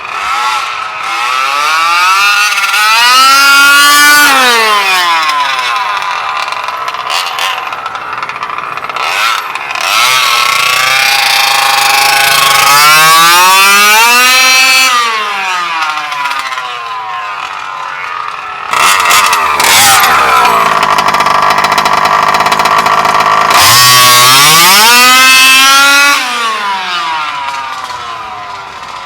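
Two-stroke gas engine of a 1/5-scale LOSI 5ive-T RC truck (Bartolone Racing BR40 big-bore) on full-throttle speed runs. It makes three passes, each rising sharply in pitch and then falling away. The last pass holds a steady high whine for a few seconds before it climbs and drops.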